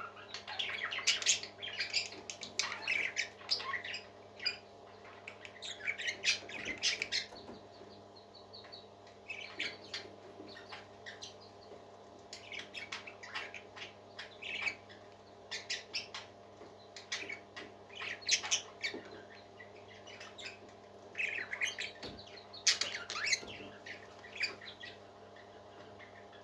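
Parakeets chirping and chattering in irregular bursts of quick, high calls, with short squawks mixed in, over a steady low hum.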